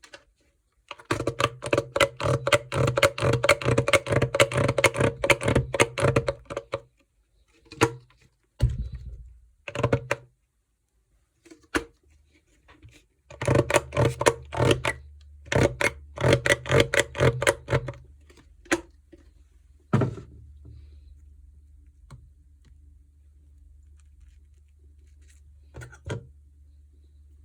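Slime being squished and poked by hand, making runs of rapid sharp clicking pops, with a few single pops in between and one heavier thump.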